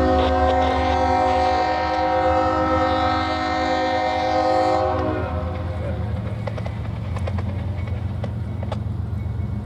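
Locomotive air horn sounding one long blast over the low rumble of a passing train, cutting off about five seconds in; the train keeps rolling afterwards with scattered clicks of wheels over rail joints.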